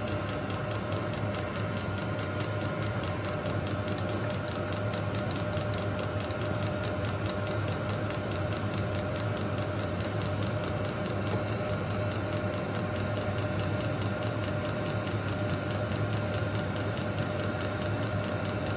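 VEVOR 8 kW diesel air heater running with its casing off: a steady blower-fan hum under a rapid, regular ticking from the fuel dosing pump. The heater has lit and is burning steadily.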